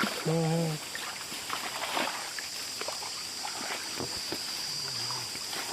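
Footsteps moving through leaves and brush, irregular crackles and rustles, over a steady high-pitched hum. A short vocal sound comes about half a second in and another near the end.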